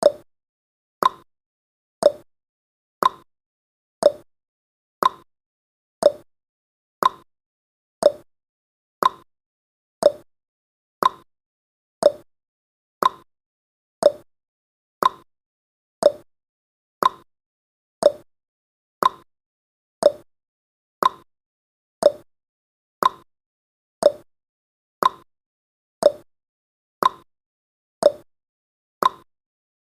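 Clock-tick sound effect of a countdown timer: one short, sharp tick a second, evenly spaced and steady.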